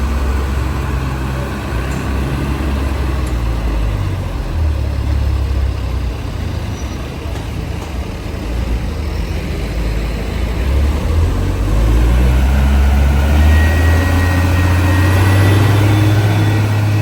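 Road traffic on a steep climb, with heavy vehicles' engines running in a deep, steady rumble that grows louder in the last few seconds.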